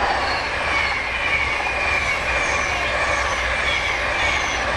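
A train passing close by on the main line: a steady loud rush of wheels on rail, with short high squealing tones that fall in pitch again and again.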